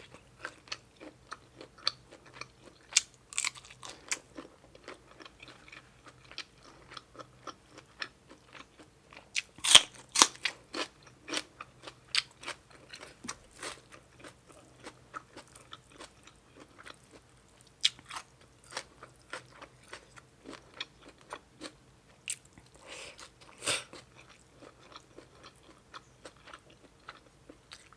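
A person chewing a mouthful of spicy seafood papaya salad with shrimp and squid, with a run of repeated wet crunches. The louder bites come about ten seconds in and again near twenty-four seconds.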